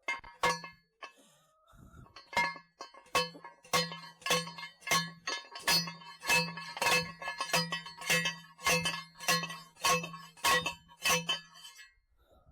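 Steel fence T-post being driven into the ground: a steady run of about sixteen metal-on-metal blows, a little under two a second, each one ringing with a bell-like clang.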